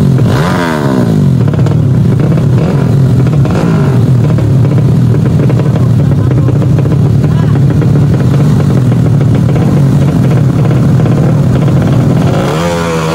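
Drag-racing underbone motorcycle engines running loud, with quick up-and-down revs near the start and again near the end over a steady drone, and voices mixed in.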